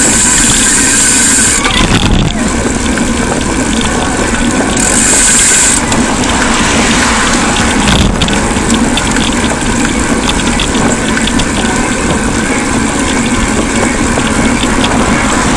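Wind and road noise on the microphone of a camera riding on a moving bicycle, with small rattles throughout. A high hiss stops about a second and a half in and comes back for about a second around five seconds in.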